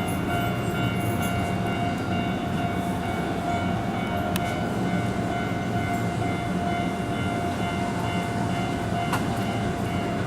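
Keihan electric train running along the line, a steady rumble with a constant high whine that neither rises nor falls.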